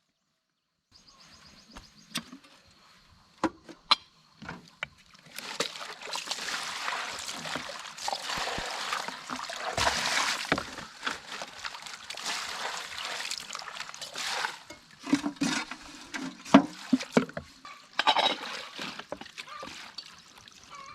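Water splashing and trickling, with scattered sharp knocks. It starts about a second in, and the splashing is loudest through the middle.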